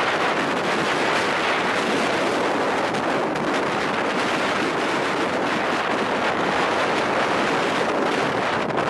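Storm wind blowing hard and steadily across the microphone, a dense unbroken rushing noise.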